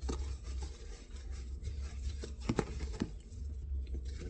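A spoon stirring thick snow cream in a bowl: soft scraping, with a few sharp clicks of the spoon against the bowl and a steady low hum underneath.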